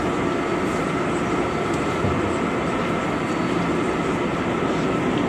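New York City Subway 7 express train running: a steady rumble of wheels on rail with a faint steady whine.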